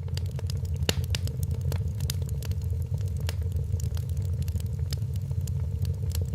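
Wood fire crackling in a fireplace: frequent sharp snaps and pops over a steady low rumble of burning logs, with a faint steady hum.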